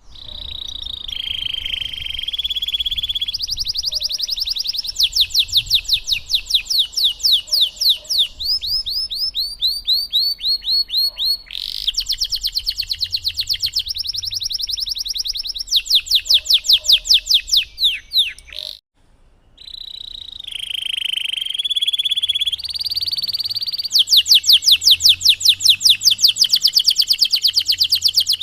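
Domestic canary singing a long, continuous song of fast rolling trills and rapidly repeated sweeping notes. It breaks off briefly about two-thirds of the way through, then starts again.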